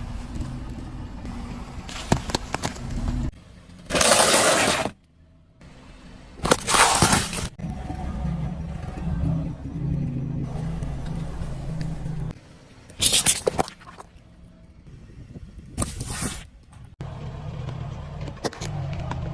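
A car's engine running low and steady, broken by four loud crunching, shattering bursts as objects are crushed under its wheels.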